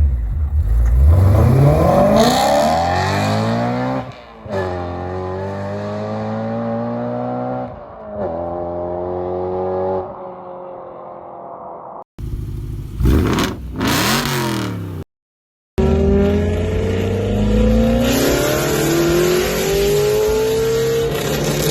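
BMW E9X M3's S65 V8 through aftermarket exhausts, revving and accelerating in a string of short clips. The pitch climbs as the revs rise, with quick sharp rev blips past the middle and a long climbing pull near the end.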